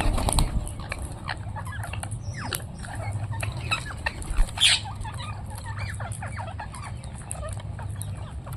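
Parrots chattering with many short squawks and chirps, louder bursts near the start and about four and a half seconds in, over a steady low hum.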